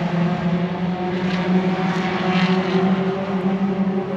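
Truck engine running at a steady speed, an even hum that holds one pitch.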